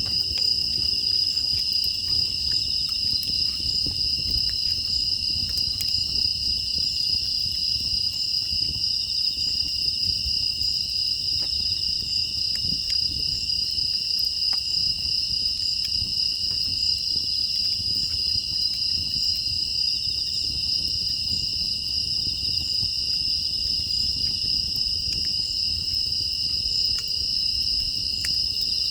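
A chorus of crickets and other grass insects trilling steadily, with the low rush and scattered faint crackles of a wood fire burning in a furnace firebox underneath.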